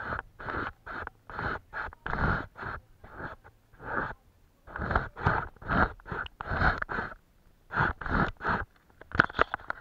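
Scratchy strokes across paper, about two a second, in uneven runs with short pauses, and a quicker flurry of strokes near the end.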